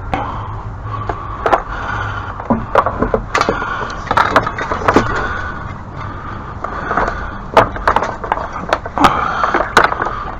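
Irregular knocks, clunks and clatter of tools and equipment being handled and shifted around, thickest near the end, over a steady low hum.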